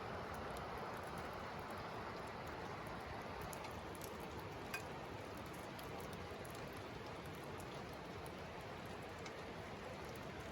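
Steady rain falling, with scattered drops ticking and one sharper drip about halfway through, after a night of heavy downpour.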